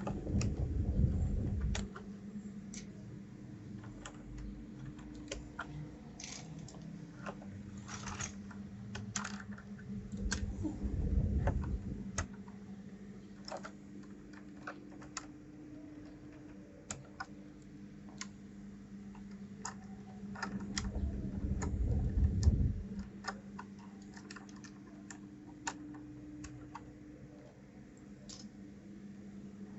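Mechanical keyboard and plastic keycaps clicking irregularly while keycaps are being swapped. Three spells of low rumbling handling noise come about ten seconds apart, over a faint steady hum.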